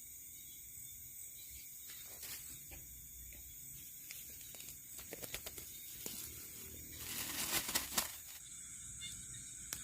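Night chorus of crickets, a steady high trill, with scattered rustling and crackling over it. A denser rustle comes about seven seconds in and lasts roughly a second and a half.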